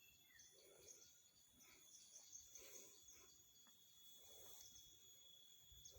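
Near silence: faint steady insect trilling, with a few soft, high bird chirps.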